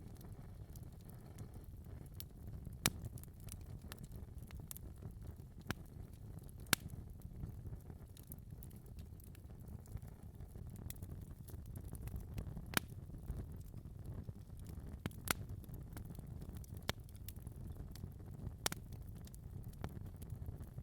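Fireplace fire crackling, over a steady low rumble of flames, with sharp pops every few seconds; the loudest pops come about three and seven seconds in.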